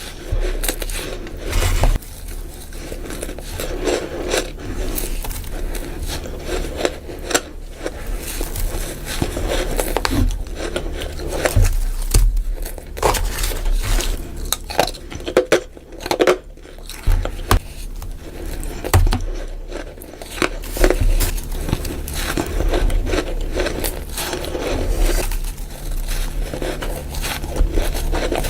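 Close-miked bites and chews of freezer frost: a quick, irregular run of crisp crunches and scrapes, sped up, over a steady low hum.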